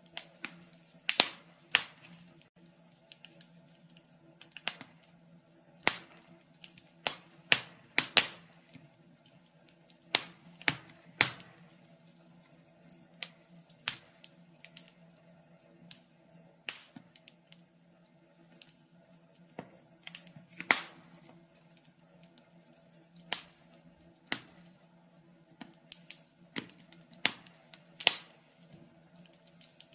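Wood fire crackling: burning logs give irregular sharp pops and snaps, several clustered around the first few seconds and again near the end, over a faint steady low hum.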